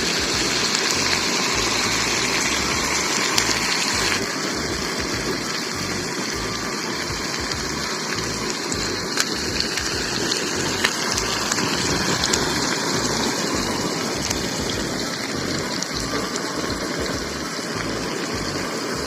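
Tandoori chicken pieces sizzling steadily in a hot pan as they are turned over, with a few light clicks of a utensil against the pan.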